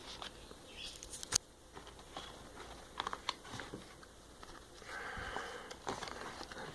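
Faint rustling and tapping of paper and cardboard packaging being handled, with a few sharp clicks, the loudest about one and a half seconds in.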